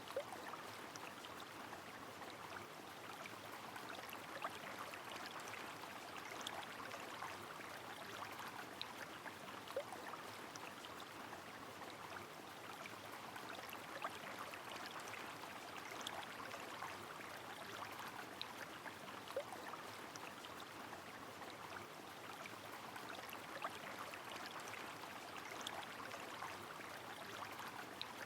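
Rain falling on a flowing river: a steady watery hiss dotted with many small drip ticks and a few short plinks.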